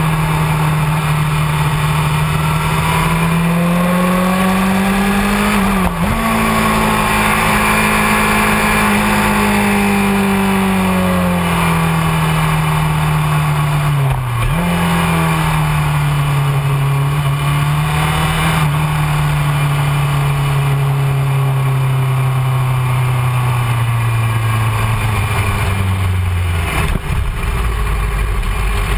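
Honda CBR600F4i inline-four engine running at steady middling revs. There are two short dips in pitch about six and fourteen seconds in. The note then slowly falls and near the end drops to a low, idle-like rumble.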